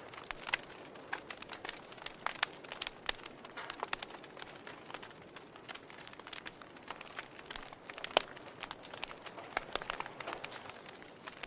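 Campfire crackling: irregular sharp pops and snaps from burning wood over a steady low hiss, with one louder pop about eight seconds in.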